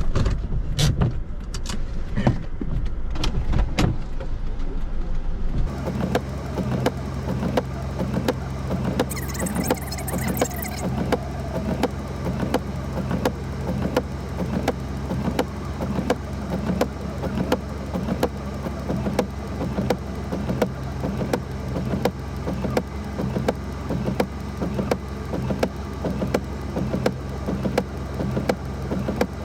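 Car sounds: a few knocks and clicks, then from about six seconds in a steady low engine hum with an even, quick ticking over it.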